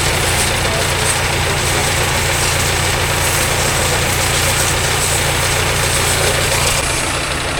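An engine running steadily with the hiss of a water spray over it; the high hiss eases a little near the end.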